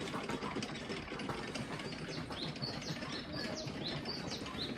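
Small birds chirping, a quick run of short, high, falling notes, several a second, over a steady background hum.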